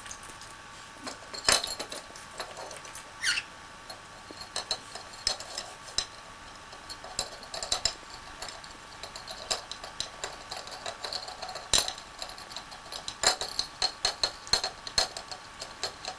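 Irregular light clicks and clinks of small hard objects, like dishes or glass knocking together, with a short squeak about three seconds in.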